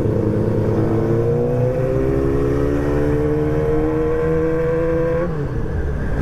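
Yamaha R6 sport motorcycle engine accelerating, its pitch climbing steadily for about four seconds under throttle, then dropping abruptly about five seconds in.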